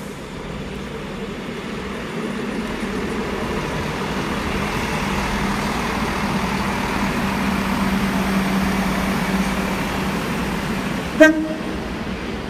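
A train approaching, its running noise and a steady low hum growing louder, then one short, loud horn toot near the end.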